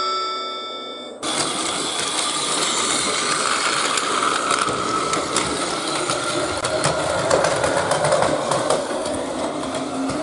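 Battery-powered Plarail toy train running on plastic track: its small gear motor whirring, with a rapid stream of fine clicks. It cuts in suddenly about a second in, as marimba-like music ends.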